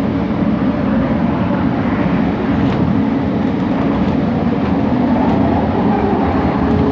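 Bombardier Innovia ART 200 train running, heard on board: a steady rumble of wheels and running gear with a few faint clicks.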